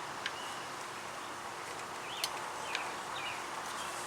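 Steady outdoor background hiss, with a few faint sharp clicks and several short, high chirps.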